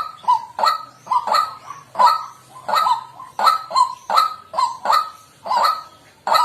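White-breasted waterhen calling, a fast unbroken run of loud croaking "kwak" notes, about three a second.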